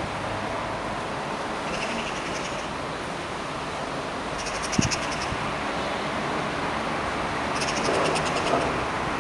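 Bird giving short bursts of rapid rattling chatter three times, over a steady background hiss, with a single sharp knock about five seconds in.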